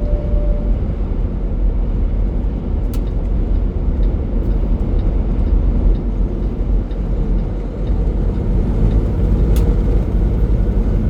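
Steady low rumble of a semi truck's engine and road noise heard from inside the cab while cruising on the highway, with a couple of faint clicks.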